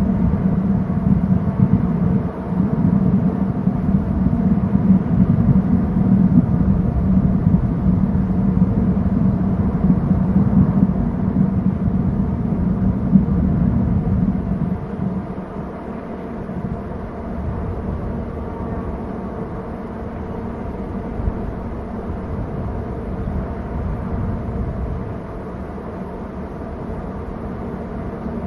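A steady low rumble with a faint hum, louder at first and dropping in level about halfway through.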